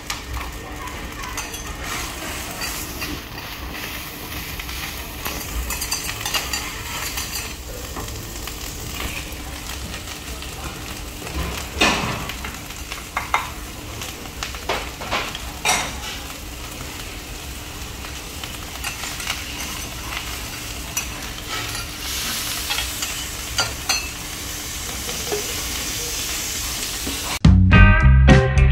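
Fried rice sizzling on a teppanyaki griddle while a spatula scrapes and taps the hot plate, with a few sharp clinks about the middle. Music comes in near the end.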